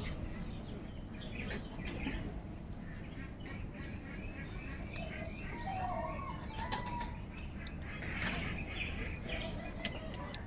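Crows gathered together, wings flapping, with scattered sharp clicks and short calls over steady low background noise.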